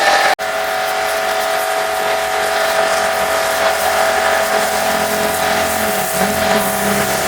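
Pressure washer running steadily: a constant spray hiss over a steady motor and pump hum. The sound drops out for an instant shortly after the start, then carries on unchanged.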